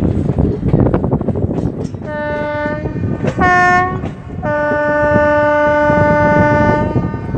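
Train horn sounding three times: a medium blast, a short louder blast at a slightly higher pitch, then a long steady blast. Under it, the rattle and clatter of train wheels running over the rails.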